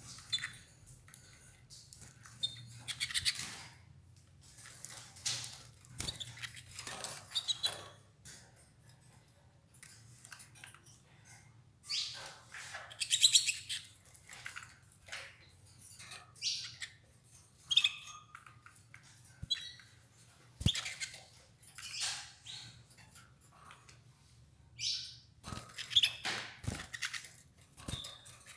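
Domestic canaries giving short, scattered chirps, mixed with rustling and a few sharp clicks as they feed on escarole leaves.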